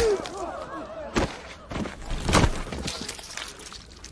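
Sword violence in a crowded stone hall: a sharp blade strike, a heavy thud and a further impact about a second apart each, with shocked gasps and voices at the start.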